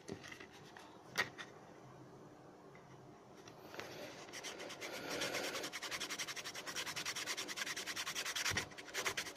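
Quick, evenly repeated rubbing or scraping strokes, like sanding, growing louder from about four seconds in, after a single click about a second in.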